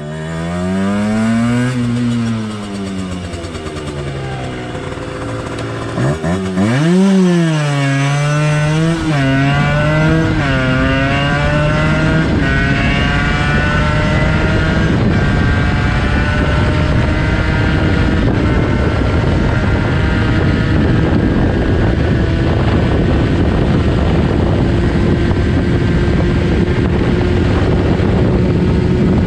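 Yamaha TZR 50's two-stroke single-cylinder engine is revved up and back down once, then accelerates hard through the gears. Each gear is a quick rise in pitch broken by a drop at the shift. After that it pulls in top gear at high revs, its pitch climbing slowly.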